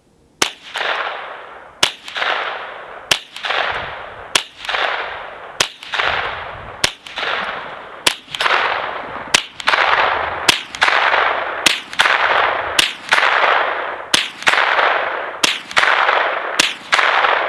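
Integrally suppressed Ruger 10/22 with a YHM barrel firing supersonic CCI Mini-Mag .22 LR rounds, about fourteen shots at a steady pace of roughly one every second and a bit. Each shot is a sharp crack trailing off over about a second.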